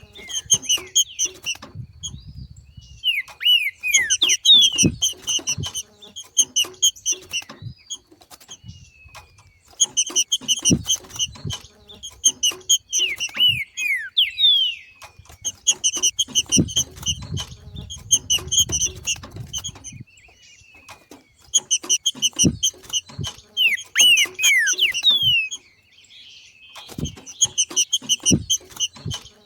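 Green-winged saltator (trinca-ferro) giving its 'macheado' call: bouts of rapid, evenly repeated chattering notes, each a few seconds long with short pauses between, and a few downward-slurred whistles in the gaps. This call marks a bird coming into breeding condition. Short low knocks are scattered through it.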